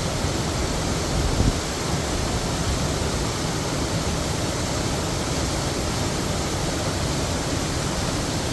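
Heavy waterfall: a steady, dense rush of falling water, with a brief low surge about a second and a half in.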